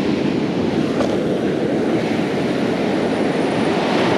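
Steady rush of ocean surf on the beach, mixed with wind on the microphone.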